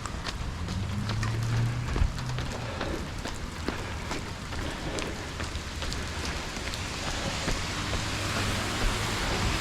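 Steady rain falling, with many irregular sharp taps over it and a low rumble underneath.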